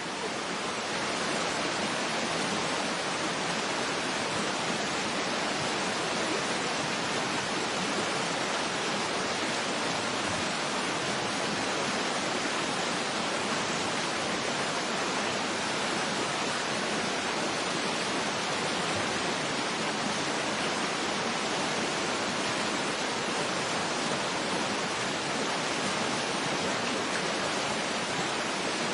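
Waterfall: a steady, even rush of falling water with little deep rumble.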